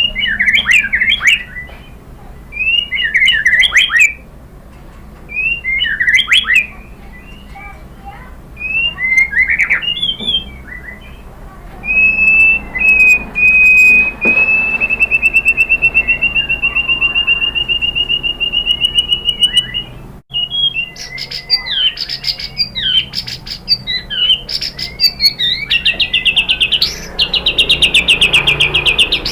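White-rumped shama (murai batu) singing: short bursts of varied whistled phrases with pauses, then a long, fast trill, rising slightly in pitch, for about eight seconds in the middle. Near the end come busier phrases and a rapid run of repeated notes.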